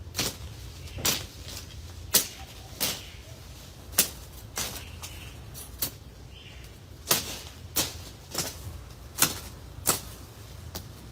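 A run of sharp, short taps or knocks at an uneven pace, roughly one a second, over a steady low hum.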